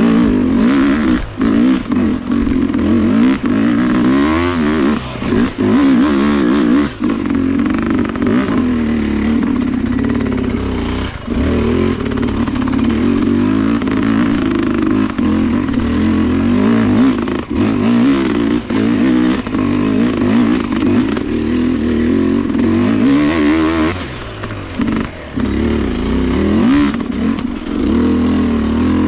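Sherco dirt bike engine running under constantly changing throttle while being ridden, its pitch wavering up and down, with short dips where the throttle closes.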